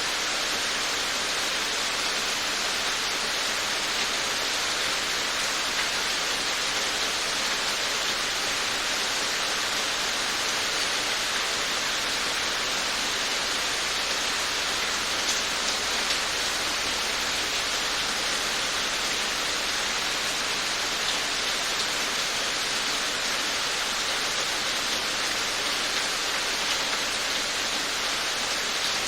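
Steady rain falling, an even hiss of many drops with faint individual drop taps here and there.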